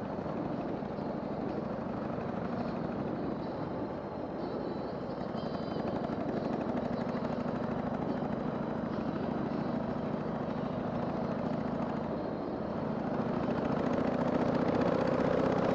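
A Harley-Davidson Sportster 883's air-cooled V-twin engine running steadily while the bike is ridden, under a rush of wind and road noise. It grows a little louder in the last few seconds.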